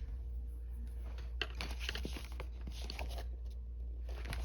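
Faint scratching and light clicks of colored pencils working on paper and being handled, over a steady low hum.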